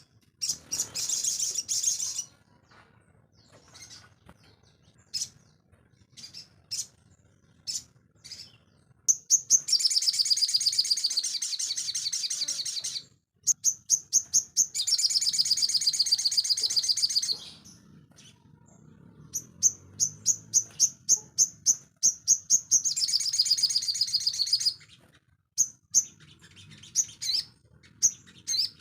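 Sogon bird singing in full, persistent song: several long, rapid, high-pitched trills a few seconds each, broken by runs of sharp single chips.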